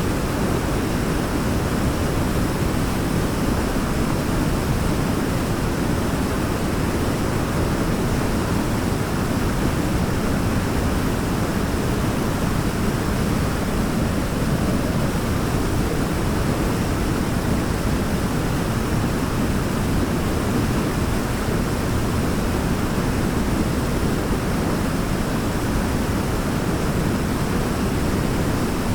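Waterfall falling steadily: an even, unbroken rush of water, deepest in the low end, with no changes or single splashes.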